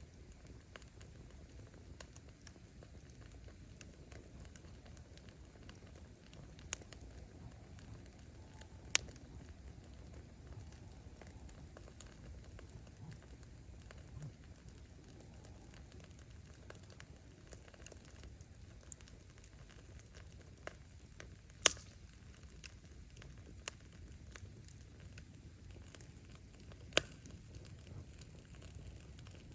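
Bonfire of firewood burning: a low steady rumble of flame with faint scattered crackling, and a handful of sharp pops as the wood bursts, the loudest about two-thirds of the way through.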